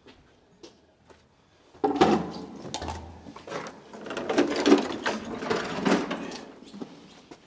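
A few light clicks, then from about two seconds in a run of rough, noisy scraping strokes, several a second.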